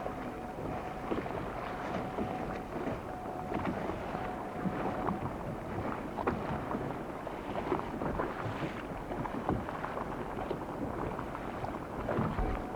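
Wind and water noise around a small boat, with irregular knocks and a faint steady whine that comes and goes.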